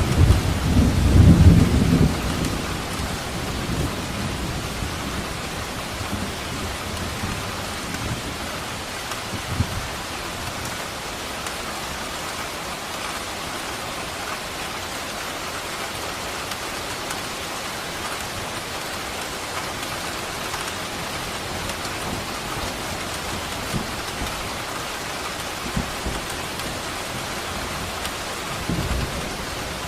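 Steady rain with thunder: a deep rumble in the first few seconds that dies away, leaving the even hiss of the rain, and another rumble building near the end.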